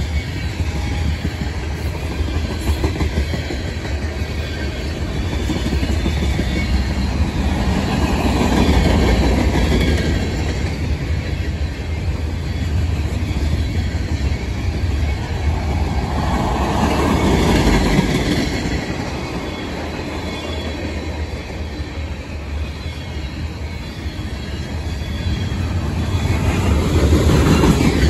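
Freight train's cars (covered hoppers, tank cars and boxcars) rolling past on jointed track: a continuous rumble and rattle of steel wheels on rail that grows louder and softer three times, with faint wheel squeal.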